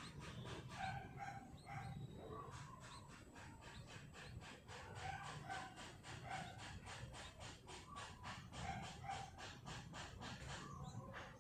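Yellow-vented bulbul nestlings calling in a fast, raspy train of about five calls a second, with short breaks near the start and near the end: the chicks begging for food.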